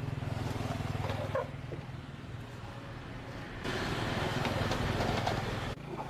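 A motor vehicle engine running steadily, with a louder rush of road or wind noise in the second half that cuts off suddenly near the end.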